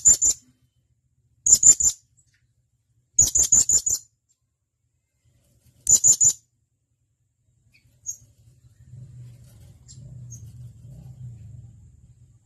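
Blue-crowned hanging parrot (serindit) giving sharp, high-pitched calls in quick runs of three to five notes, four runs in the first six seconds. These are followed by a couple of faint single notes and a low rumble near the end.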